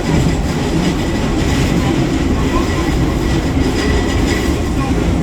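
Eizan Electric Railway train running along the line: a steady rumble of wheels on rails with a faint steady high tone above it.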